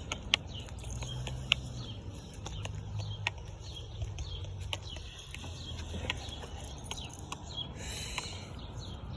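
Small birds chirping, with short high calls repeated throughout over a low steady rumble. A few sharp clicks, and a brief hiss about eight seconds in.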